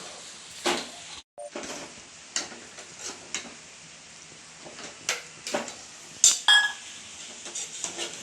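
Metal spoon stirring in a cooking pot, with scattered knocks and scrapes against the pot over a steady sizzle. A louder metallic clank about six seconds in is followed by a brief ringing.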